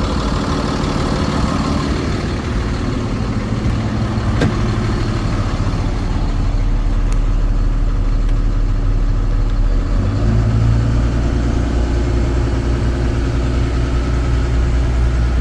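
A 6.7 L Cummins turbo diesel in a Ford F-750 runs steadily at idle with the PTO engaged to drive the hydraulics. About ten seconds in, its low note shifts and gets a little louder.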